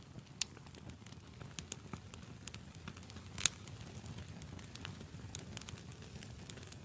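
Burning wood crackling in a campfire: irregular sharp pops and snaps over a low steady rumble of the flames, with the loudest pop about halfway through.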